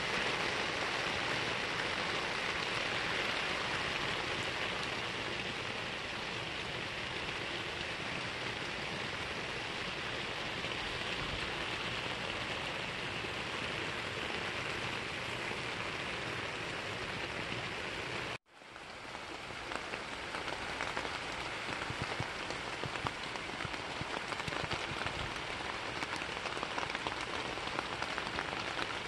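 Steady rain falling, an even hiss that drops out for an instant about eighteen seconds in and then carries on with scattered sharp drip ticks.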